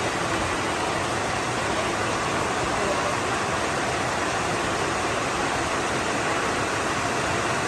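Steady, even rushing of falling water, unchanging and without any rhythm.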